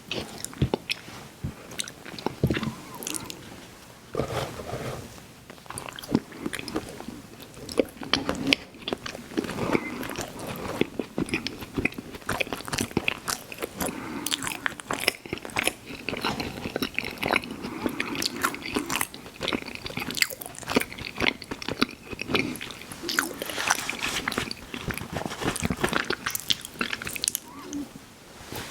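Close-miked ASMR eating of an ice cream sandwich: biting and chewing throughout, with dense, irregular crunchy clicks and mouth sounds.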